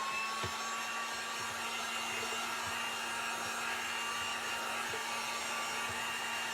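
Handheld electric dryer blowing steadily to dry freshly applied wet paint stain, its motor giving a constant hum under the rush of air. A whine rises slightly in the first second as the motor comes up to speed, then holds steady.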